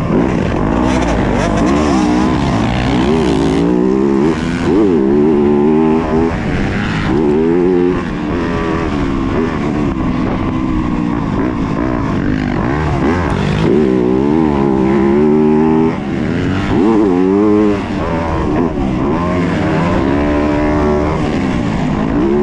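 Yamaha YZ250F four-stroke single-cylinder motocross engine ridden hard, its pitch rising and falling over and over as the throttle is opened and closed.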